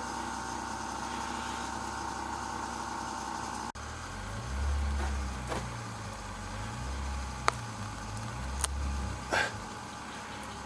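A steady hum with a faint whine that cuts off abruptly about a third of the way in. Then a car engine revs in uneven, swelling pulses as the driver tries to climb an ice-glazed road and cannot get back up it.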